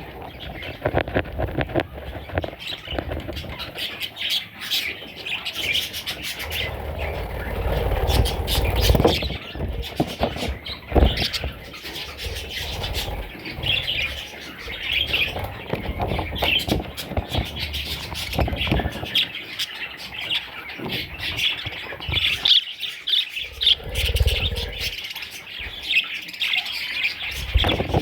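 Budgerigars chirping and squawking continuously, with intermittent low thumps and rumbles.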